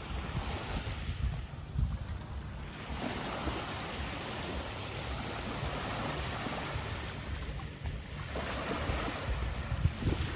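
Wind buffeting the microphone over the wash of waves breaking on the beach, the wash swelling a couple of times.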